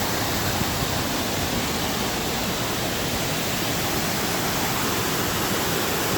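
Rushing water from a rain-swollen ravine and waterfall, a steady, even roar of falling and flowing water.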